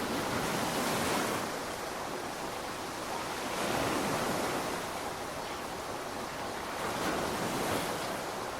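Steady rainfall, an even hiss that swells louder three times, about one, four and seven and a half seconds in.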